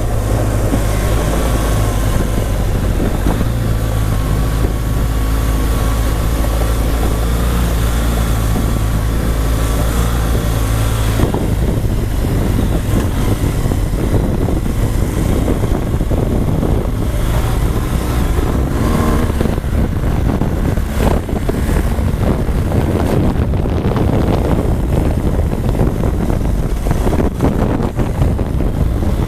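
BMW R1200GS boxer-twin engine running under way on a dirt trail, with wind on the microphone and the knocks and rattles of rough ground. The engine's steady low hum gives way to a rougher, noisier sound about eleven seconds in.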